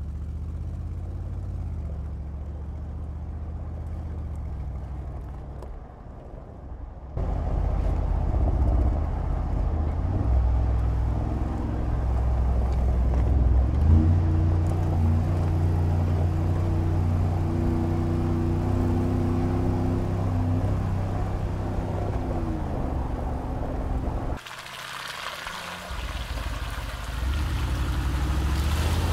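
Mercedes-Benz G-Class SUV engine running under load as it drives off-road, its pitch rising and falling with the revs. The sound changes abruptly twice, once about a quarter of the way in and again near the end, between driving passages.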